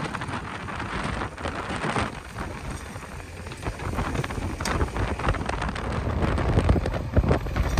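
JCB 3DX backhoe loader's diesel engine working while loading mud, mixed with heavy wind noise on the microphone and a dense, irregular crackle.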